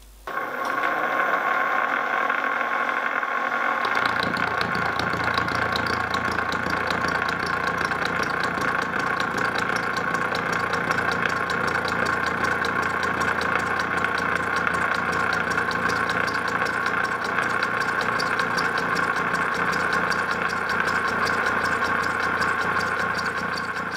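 Milling machine running with a gear cutter cutting teeth in a steel spur gear blank, a steady machining whine. A lower hum joins about four seconds in.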